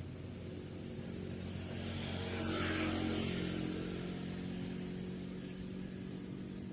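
A passing engine: a steady low hum that swells louder about three seconds in and then fades.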